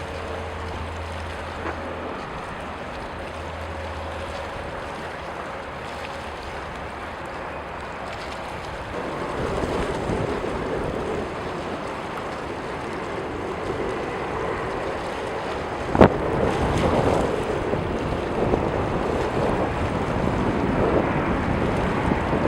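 Jet airliner engine noise that grows louder about nine seconds in, with wind buffeting the microphone and a sharp knock about sixteen seconds in.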